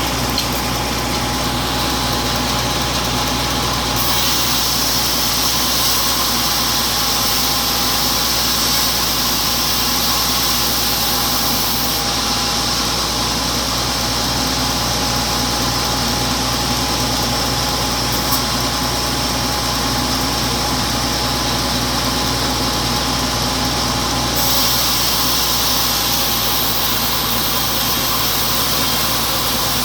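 A log sawmill running steadily as it saws a freshly felled, wet teak log into boards. There is a steady whine under a hiss, and the hiss changes a few times as the cut goes on.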